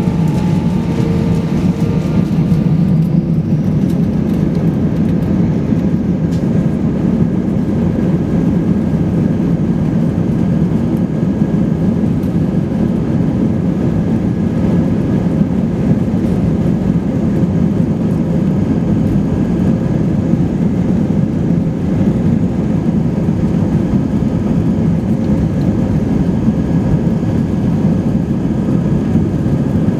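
Steady cabin rumble of an Airbus A320-232 in operation, its IAE V2500 engines and airflow heard from inside the passenger cabin. A faint whine fades out about two seconds in.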